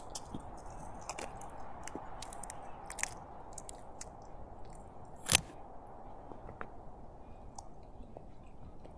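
A person eating close to the microphone: chewing and crunching in short scattered bites, with one sharper, louder click about five seconds in.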